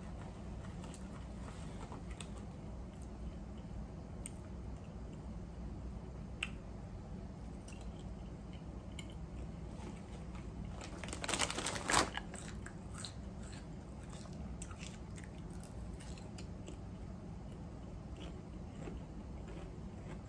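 Close-up chewing and crunching of Ruffles ridged potato chips, with small crackles scattered throughout. A louder burst of crackling comes a little past halfway.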